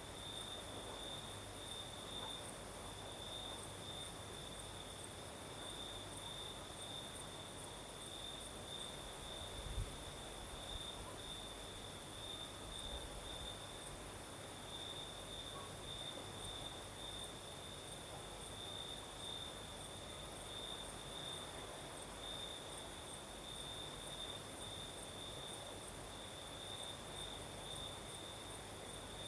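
Crickets chirping in a steady, evenly pulsing chorus at night. There is a high trill and a fainter, still higher insect buzz above it, over a soft breeze. A single soft low thump comes about ten seconds in.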